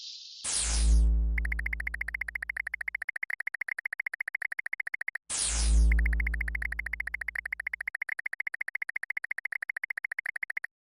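Synthesized electronic sound effect, played twice and starting a third time at the end: a sharp falling swoosh over a deep bass tone that fades away, followed by a fast, even run of high beeps.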